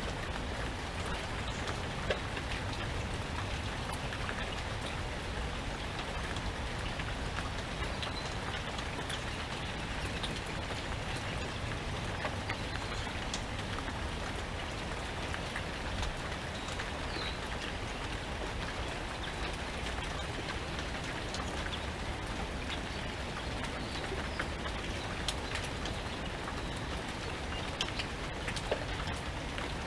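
Steady rain falling, with scattered sharp drip taps and a low rumble of wind.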